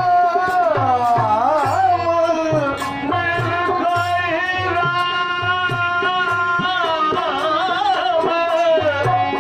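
A singer performing a devotional folk song on the Ramayana, drawing out 'Ram' in long winding ornaments over steady held accompaniment notes and tabla strokes keeping teentaal.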